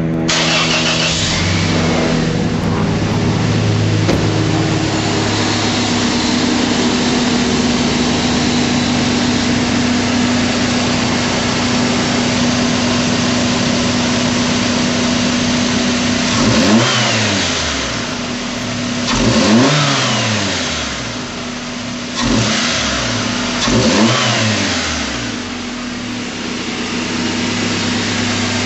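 1997 Toyota 4Runner's 2.7L 3RZ four-cylinder engine, breathing through a cold air intake and a Flowmaster 40 Series Delta Flow cat-back exhaust, starting right at the beginning and idling steadily. Past the middle it is revved four times in quick blips, then it settles back to idle.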